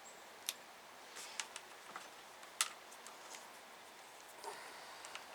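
A few light, sharp clicks and taps from handling a wiring connector and a T-pin test probe.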